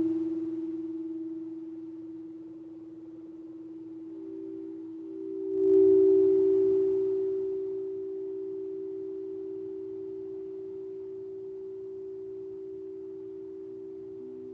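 Singing bowls ringing with long sustained tones for a sound bath. One tone is fading when a second bowl is struck about five and a half seconds in and rings on, slowly fading, and a lower tone joins near the end.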